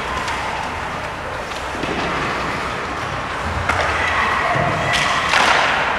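Ice hockey game sound in the rink: a steady hum of crowd and rink noise with a few sharp clacks, typical of sticks and puck hitting boards, in the second half, along with some calling voices.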